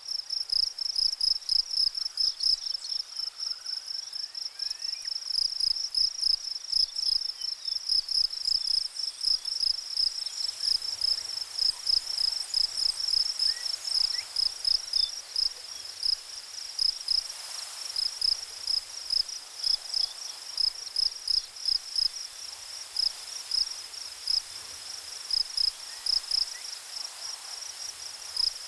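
An insect, cricket-like, chirping in a high, even, rapid series that keeps going steadily.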